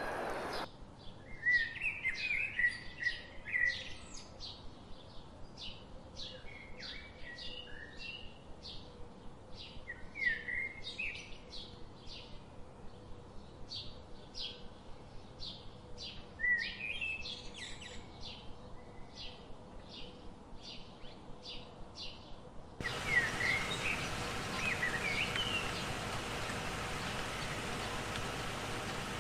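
Small birds chirping in short scattered bursts over a faint, regular ticking about twice a second. About three-quarters of the way through the ticking stops, and a louder, steady outdoor background comes in under more chirps.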